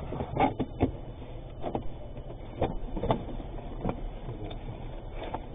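Vehicle running, heard from inside the cab through a dash camera: a steady low rumble with irregular sharp knocks and clicks every half second to a second.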